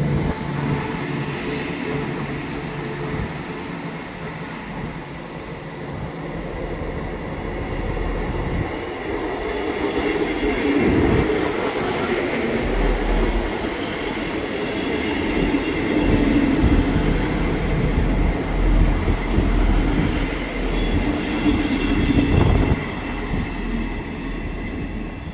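A train running past on the rails, its rumble building from about a third of the way in, with knocks from the wheels, and easing off near the end.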